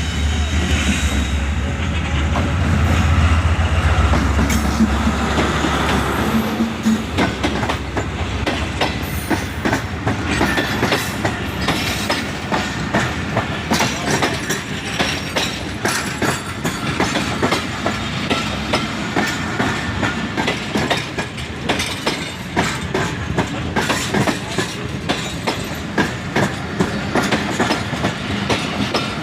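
A train running past: the locomotive's deep engine drone for the first six seconds or so, then the wheels clattering steadily over the rail joints as the carriages go by.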